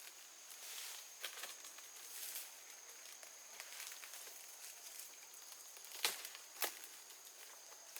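Quiet rustling and handling sounds in the undergrowth, with two sharp snaps about six seconds in, over a faint steady high-pitched whine.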